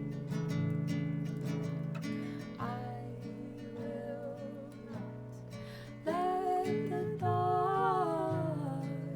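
Acoustic guitar playing a song, with strummed and plucked notes throughout. A wordless vocal line rises and falls over it twice, briefly near the start and longer in the second half.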